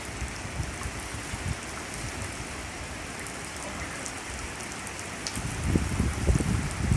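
Rain falling steadily in a severe thunderstorm, with low rumbling gusts of wind that surge more strongly near the end.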